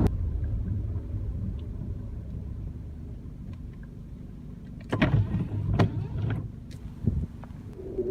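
Steady low rumble of car cabin noise from a car on the move, with a few sharp knocks and clicks about five to six seconds in.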